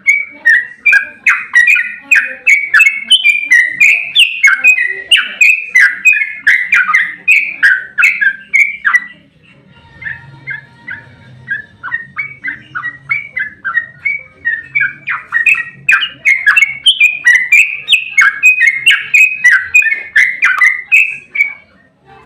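Yellow-vented bulbul (trucukan) singing a long, fast run of chattering, warbling notes, about three to four a second. The song turns fainter for several seconds around the middle, then comes back loud until just before the end.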